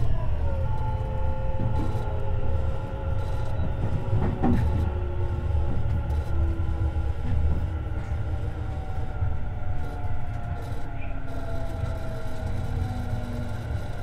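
Tobu 50090 series electric commuter train running at speed, heard inside the car above the bogie. A steady rumble of wheels on rail carries the whine of the traction motors, whose tones slowly fall in pitch, with a single click about four and a half seconds in.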